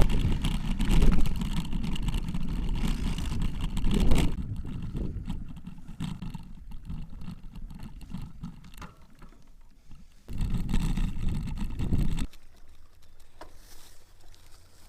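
Wind buffeting the microphone in gusts, strong for the first few seconds, easing off, then a second gust for about two seconds near the end, with faint scattered clicks in the quieter stretches.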